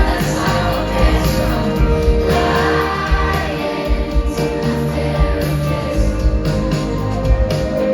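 Live pop music: female singing over a band with a steady beat.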